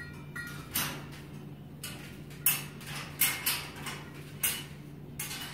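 A series of short clatters and scrapes, about seven in a few seconds, from the metal bars and doors of a parrot cage being handled and wiped down, over a steady low hum.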